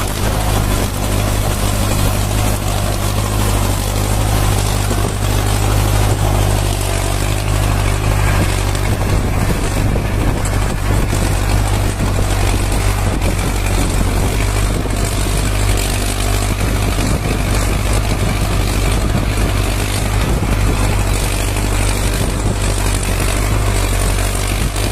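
Homemade tractor's D-240 four-cylinder diesel engine running steadily, with a deep even note and no change in engine speed.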